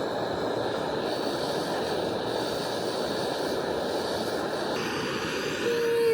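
A steady rushing hiss that swells briefly with a short falling tone near the end, then cuts off abruptly.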